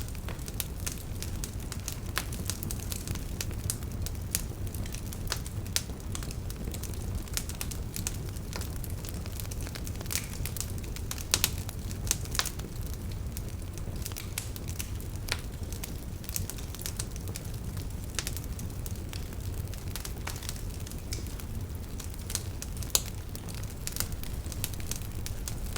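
Fire burning in a fireplace: a low steady rumble under frequent small crackles, with a few sharper pops in the middle and near the end.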